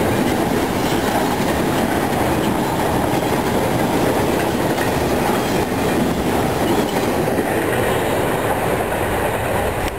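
Intermodal freight train of highway trailers on flatcars rolling past, its wheels clattering and rumbling steadily on the rails. The last cars go by near the end, and the high hiss of the wheels eases off.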